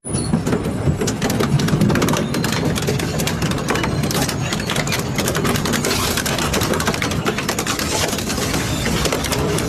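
Double-shaft shredder running under load, its blades tearing and crushing material with a dense, steady crackle of small cracks and snaps over a low mechanical rumble.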